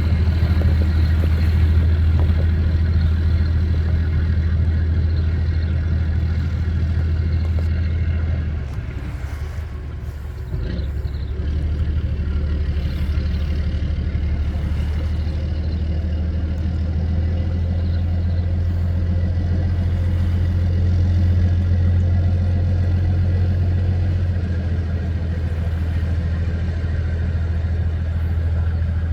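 River express boat's diesel engine running steadily under way, a deep drone; it eases off for a couple of seconds about nine seconds in, then picks back up.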